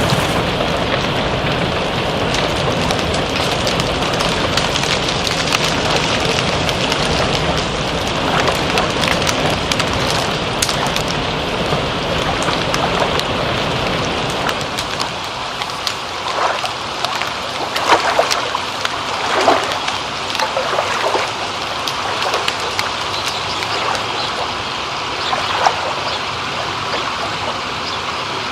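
Steady rainfall, a dense even hiss; about halfway through it thins into trickling, running water with scattered drips and splashes standing out.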